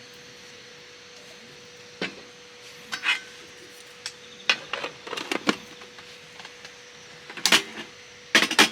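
Irregular clicks, clinks and knocks of camp gear being handled, with a cluster of sharper knocks near the end, over a faint steady hum.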